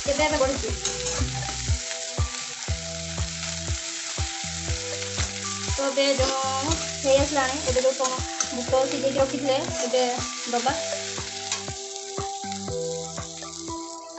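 Sliced onions, green chillies and tomatoes sizzling in hot oil in a cast-iron kadai as they are stirred and scraped with a metal spatula; the sizzle dies down near the end once the stirring stops.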